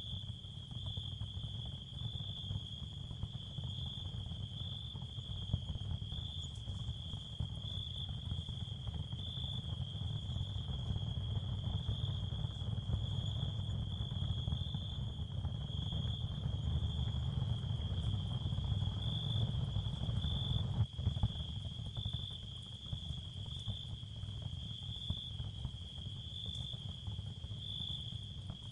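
Ambient sound bed: steady, high, even chirring like crickets over a low rumbling noise, with a single click about two-thirds of the way through.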